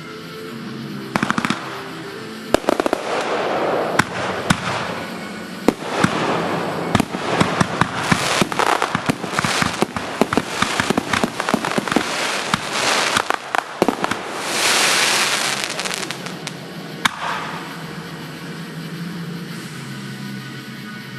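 Fireworks display going off: a rapid run of sharp bangs and crackles, densest in the middle, then a long hissing crackle about three-quarters of the way through before the bursts thin out.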